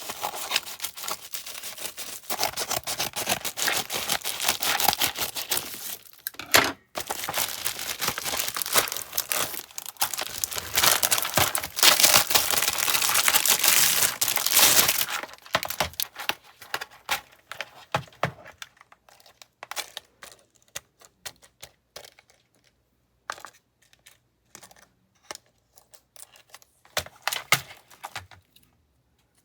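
Parcel packaging being crinkled and torn open by hand, densely for about the first half, then sparser rustling and light clicks.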